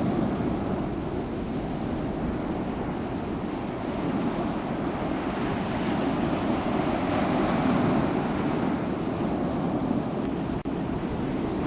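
Sea waves washing onto the shore in a steady rush of surf that swells a little partway through.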